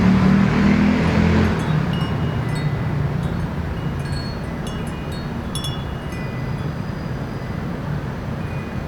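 Small wind chime tinkling in the breeze, scattered light high notes ringing out over a steady low city traffic hum. A passing vehicle is loudest in the first second and a half, then fades.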